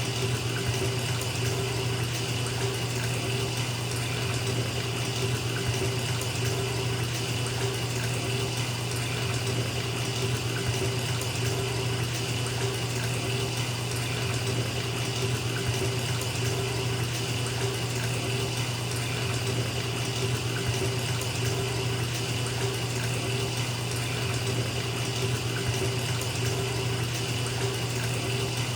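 Bathtub filling from its tap: a steady stream of running water pouring into the tub, unchanging throughout.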